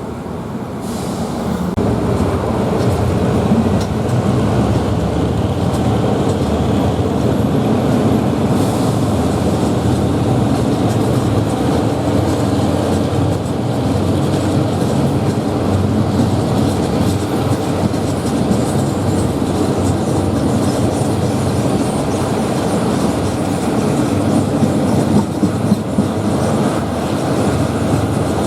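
Passenger train running along the track, heard from on board: a steady rumble of wheels and coach with some clickety-clack over rail joints. It grows louder over the first couple of seconds, and a few sharp knocks come near the end.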